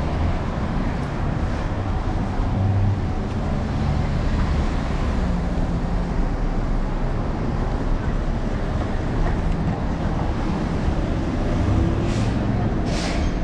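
Steady ride noise from a camera on an electric scooter's handlebars moving through city traffic: a constant low rumble of wind and passing vehicles. Near the end there are two short, high hisses.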